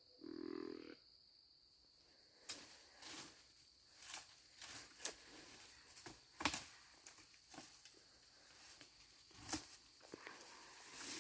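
Quiet woods with a faint steady high insect hum. A short low pitched grunt-like sound comes just after the start, then scattered light rustles and clicks from people shifting and handling gear.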